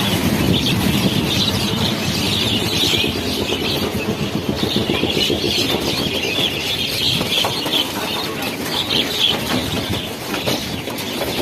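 A large flock of birds calling all together, a dense unbroken chatter of chirps, over a steady low rumble.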